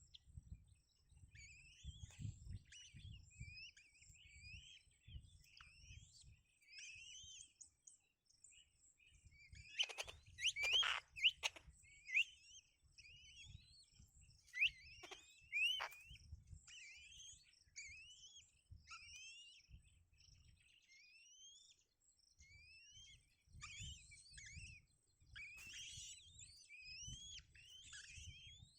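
Small birds chirping in a quick run of short, rising chirps, with louder calls about ten seconds in and again around fifteen seconds, over a faint low rumble.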